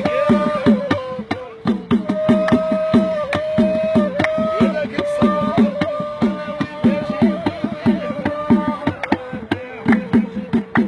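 Gasba reed flute playing long held notes over a steady hand-drum rhythm, each drum stroke quickly dropping in pitch.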